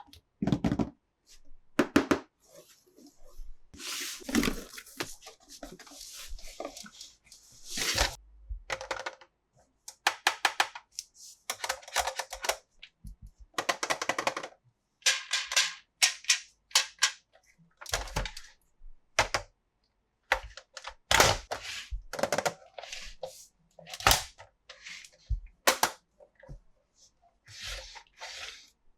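Hands handling plastic toys and their packaging: an irregular run of sharp clicks, snaps and light knocks, with a stretch of rustling a few seconds in and a brief pause near the middle.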